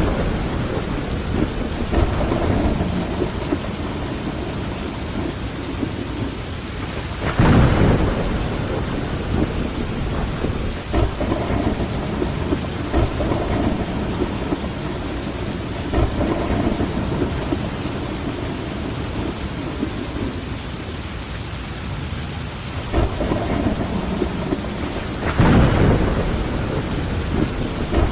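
Steady rain tapping against window glass, with thunder rumbling twice: about a quarter of the way in and again near the end.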